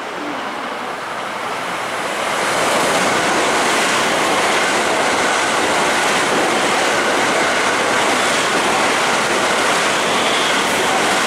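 JR West Special Rapid electric train running through the station at speed without stopping: a rush of wheel and rail noise that swells about two seconds in as the cars reach the platform, then holds steady while they go by.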